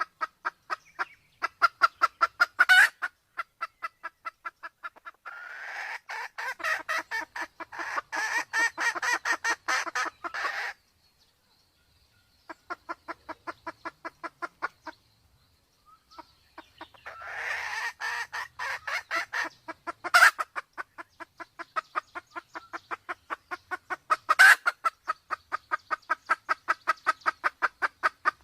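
Sumatran red junglefowl hens clucking in long, even runs of short notes, about four or five a second. Twice the runs thicken where calls overlap, there is a brief break before the middle, and a few sharper, louder notes stand out. These are given as the calls of a hen in heat.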